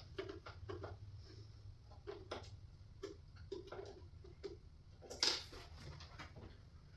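Irregular light clicks and taps of a hand screwdriver turning a screw into a flat-pack cabinet panel, with one louder knock about five seconds in.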